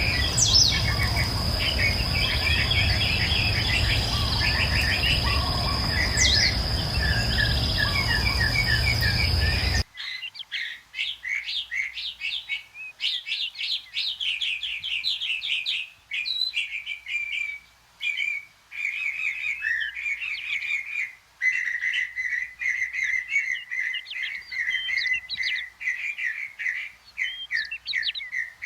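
Wild tropical forest birds calling over a steady high insect drone and a low rumble. About a third of the way in the sound cuts abruptly to cleaner birdsong: quick series of fast, sweeping notes in phrases separated by short pauses.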